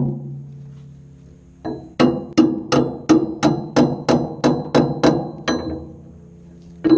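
Hammer blows on ringing steel during work on a bulldozer's final drive, tapping a part into line by the sprocket. A single strike, then a run of about a dozen quick blows at roughly three a second, then one more near the end, each leaving a metallic ring.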